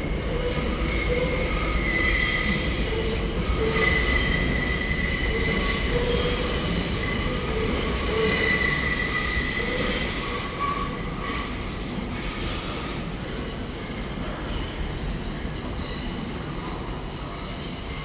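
TfL Rail electric train pulling out of the station, its wheels squealing in repeated high-pitched squeals over a steady rumble, the sound fading away over the second half.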